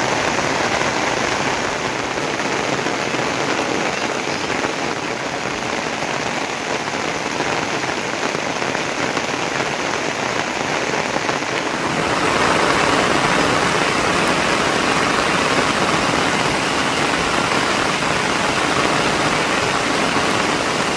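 Heavy rain falling steadily, a little louder about twelve seconds in.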